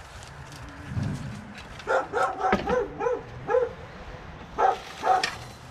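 A dog barking: a quick run of short barks about two seconds in, then two more barks near the end.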